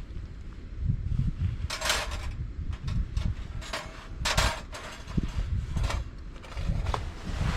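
Wind buffeting the microphone in gusts, with three brief rustling or scraping handling noises about two, four and a half, and seven and a half seconds in.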